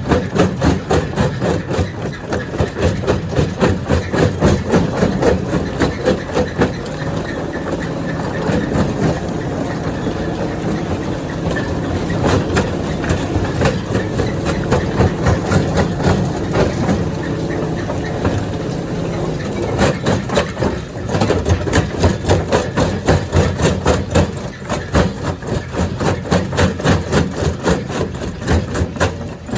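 Stone crusher running: a steady heavy machine drone under dense, rapid clattering and knocking of rock being crushed. The knocking pulses hardest at the start and again from about twenty seconds in, with a steadier churn between.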